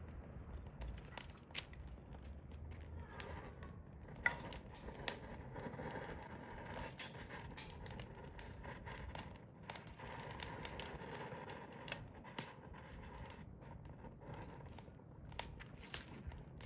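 Hardwood fire crackling, with irregular sharp pops and snaps over a low steady hiss.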